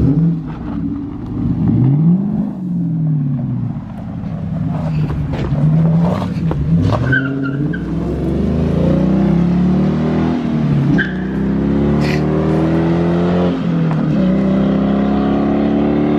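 Straight-piped 5.7-litre HEMI V8 of a 2015 Dodge Challenger R/T, its mufflers cut off, revving and then accelerating hard through the gears. The pitch climbs, drops back twice at the upshifts, and climbs again. It is loud and open.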